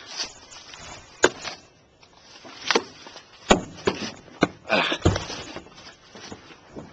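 Scattered sharp knocks and scuffs of a person scrambling on a train car and slipping off it, with a heavier thump about five seconds in.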